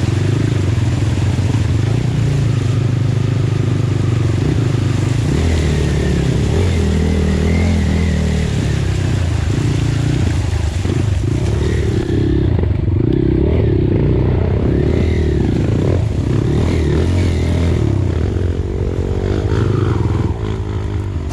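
Off-road trail motorcycle engine running under load, its revs rising and falling again and again.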